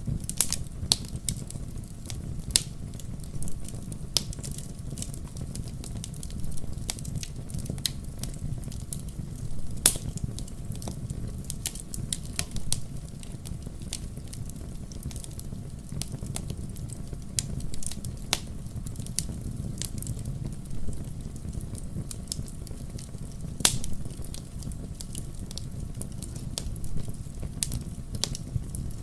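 Wood campfire burning, a steady low rumble of the flames with irregular sharp crackles and pops, a few louder pops standing out.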